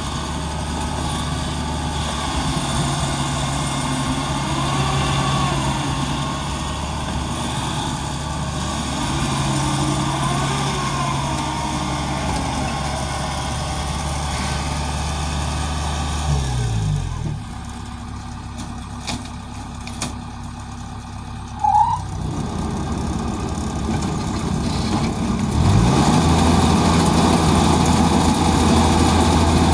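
Farm machinery engine running steadily, then winding down about halfway through to a lower, quieter run, with a few clicks and a short chirp, before revving back up louder near the end.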